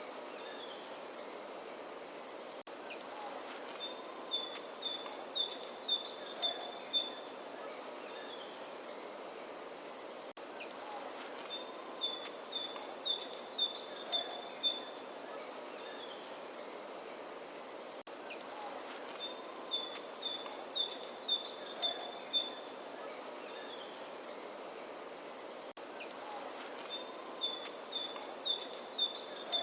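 A songbird singing the same phrase four times, about every eight seconds: a quick high note sliding down, then a string of short, evenly spaced chirps. A faint steady background noise runs underneath.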